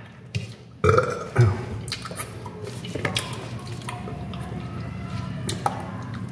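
Wet chewing and mouth sounds of someone eating juicy fresh pineapple, with scattered small clicks. A louder, short voiced sound comes about a second in.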